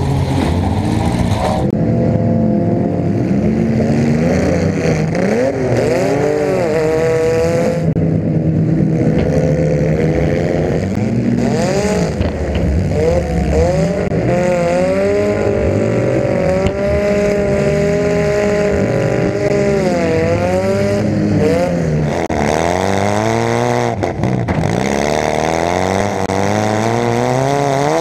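Demolition derby car engines, heard from on board, revving hard up and down again and again, with a few sudden bangs of cars colliding.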